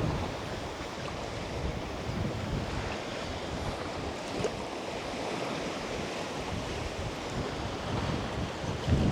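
Wind buffeting the microphone over a steady wash of small lake waves lapping the shore, with gusts of low rumble at the start and again near the end.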